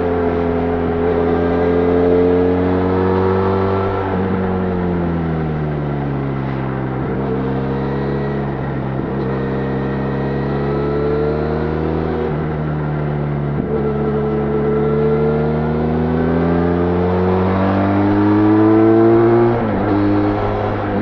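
Benelli Leoncino 500 parallel-twin engine through its stock exhaust, ridden on the road. The engine note falls about four seconds in as the revs drop, holds low and fairly steady, then climbs for several seconds before dropping sharply near the end.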